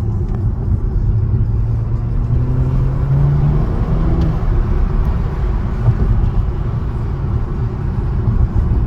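BMW M340i's B58 three-litre turbocharged straight-six with a Stone Exhaust catalytic downpipe, heard from inside the car under way: the engine note rises for a few seconds from about a second in as the car pulls, then settles into a steady low drone with road rumble.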